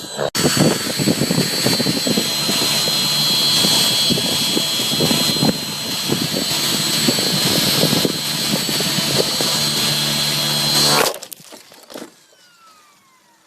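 Electric T-Rex 600E Pro RC helicopter in flight, its motor and rotor making a steady high-pitched whine. About eleven seconds in the sound cuts off abruptly, leaving a faint falling whine as the helicopter winds down after it crashes.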